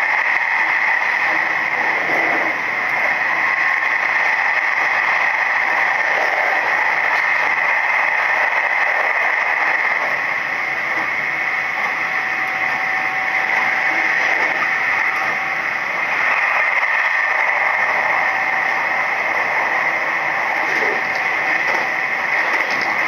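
Running noise of a Nishitetsu 3000 series electric train at speed, heard from inside the carriage: a steady hiss with a faint hum.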